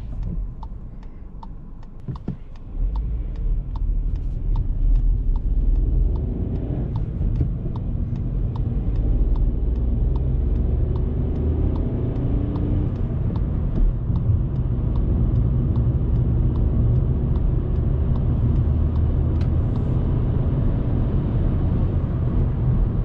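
Volkswagen Polo's 1.0-litre three-cylinder turbo petrol engine heard from inside the cabin, pulling away and accelerating: it gets louder about three seconds in, and its note climbs twice as the car goes up through the gears.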